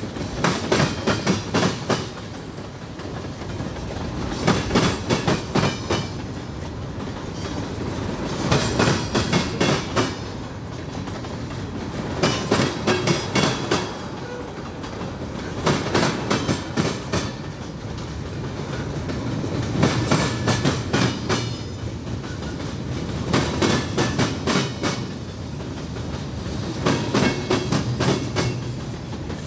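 Freight train rolling slowly past, its car wheels clacking over rail joints in clusters that come about every four seconds over a steady rumble of the passing cars.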